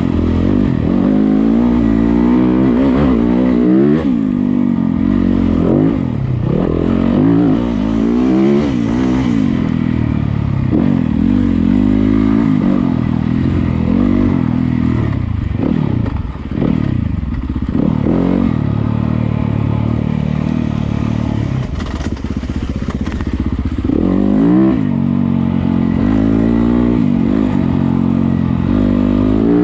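Yamaha YZ250FX dirt bike's 250cc single-cylinder four-stroke engine being ridden, its pitch rising and falling again and again as the throttle is worked through the gears.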